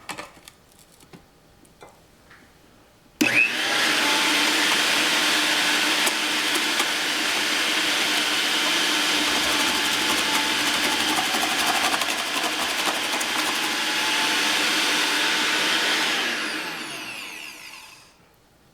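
Electric motor of a GoWise 800-watt meat grinder and food processor running its vegetable slicer attachment. After a few light clicks it switches on abruptly about three seconds in, runs steadily and loudly for about thirteen seconds, then winds down.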